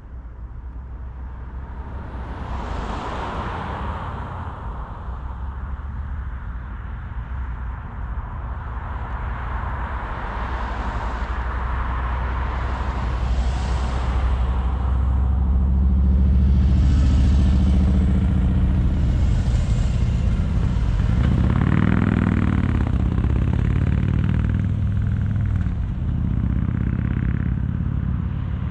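A car driving along a road: a steady low rumble of engine and tyres, with several whooshes of passing traffic swelling and fading. The engine note grows louder from about halfway through, and another vehicle's engine rises briefly about two-thirds of the way in.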